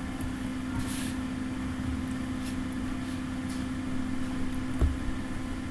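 Steady electrical or mechanical hum with a constant low tone, like an appliance or fan running, with a brief soft rustle about a second in and a low thump near the end.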